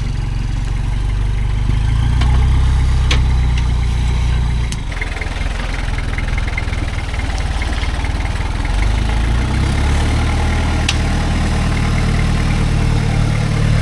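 The LN106 Hilux's 3.0 litre turbo diesel engine runs at low revs while crawling off-road. Its note eases off about five seconds in and builds again a few seconds later.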